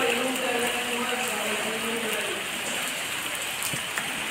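Rain falling on a flooded street, a steady hiss of drops striking the standing floodwater. A long held, slightly falling tone sounds over it for the first two seconds, then stops.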